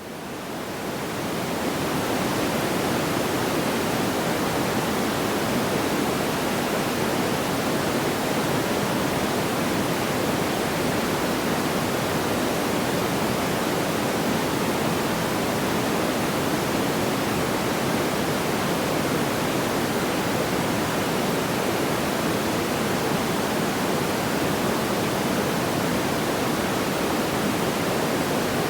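Steady, even rushing noise like pink noise, with no distinct crackles or pops, fading in over the first second or two.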